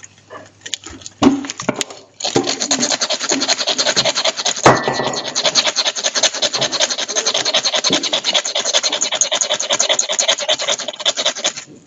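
Ferro rod being scraped with a striker: a few single scrapes, then from about two seconds in a fast, even run of rasping strokes that stops just before the end.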